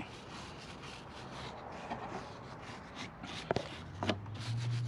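A brush scrubbing a motorcycle drive chain that has been soaked in chain cleaner, in quiet scraping strokes. There are two sharp knocks about three and a half and four seconds in, and a low steady hum comes in near the end.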